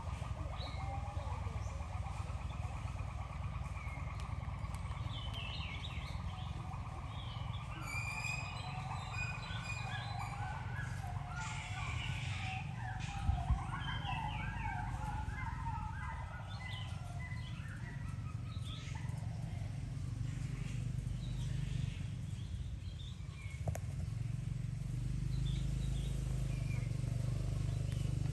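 Many short, high chirping and squeaking animal calls, busiest in the middle, over a steady low rumble.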